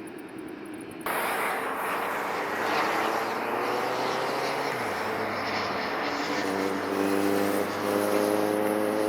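Airbus Beluga ST jet engines running loud: a roar that starts suddenly about a second in, with several whining tones that rise slowly in pitch through the second half.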